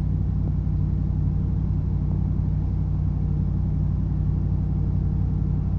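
A large engine running steadily at idle, an even low drone that does not change.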